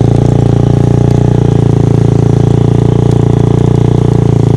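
Honda dirt bike engine running loud and steady at low revs, with no revving up or down.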